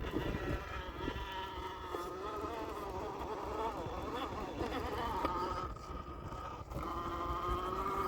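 Axial SCX10 II RC crawler's electric motor and gearbox whining as it drives, the pitch rising and falling with the throttle and dipping for a moment about six seconds in.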